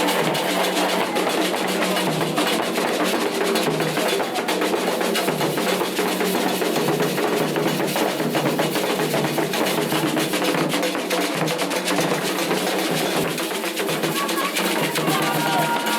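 Atabaque hand drums of a Candomblé ceremony playing a fast, dense rhythm without a break.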